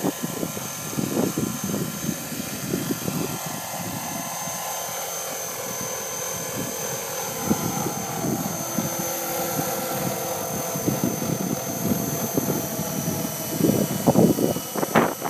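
Radio-controlled MD500 scale model helicopter running, with a steady high-pitched motor whine over the rotor noise. Louder uneven thumps come in near the end.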